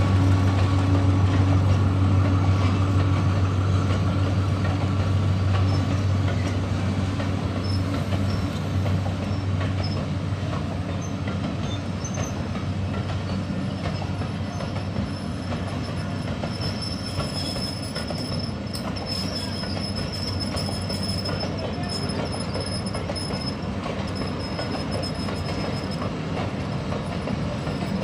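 A train passing. A strong low hum fades over the first ten seconds or so, then the wagons roll by with a steady rumble and a thin, high-pitched wheel squeal through the middle, the whole sound slowly growing quieter.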